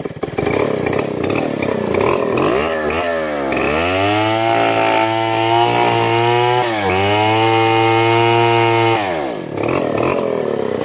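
Two-stroke chainsaw engine revving up about three seconds in and holding a steady high speed for about five seconds, with a brief dip midway, then dropping back down near the end.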